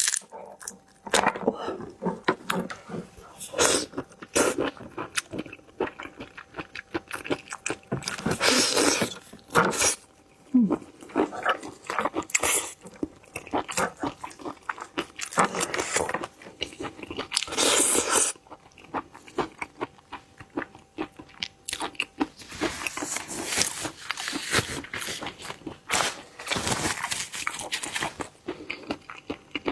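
Close-miked eating of shellfish: shells cracking and snapping, meat being pulled apart and chewed with wet mouth sounds, in irregular bursts.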